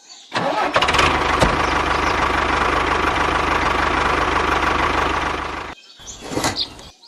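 A small engine running steadily with an even low pulse, cutting off suddenly near the end, followed by a brief fainter noise.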